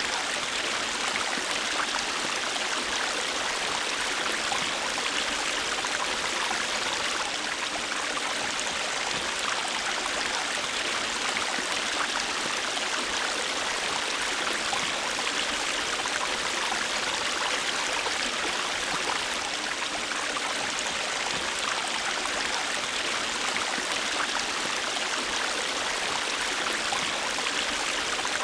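River water flowing in a steady, even rush, with small splashes and trickles through it.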